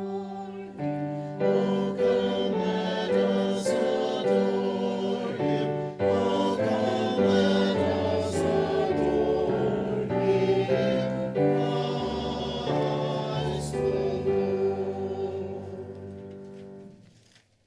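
Church choir singing a Christmas piece in sustained chords with accompaniment. The final chord is held and dies away near the end.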